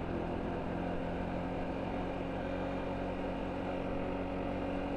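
Motorcycle engine running at a steady pitch while riding along, over a steady rush of road and wind noise.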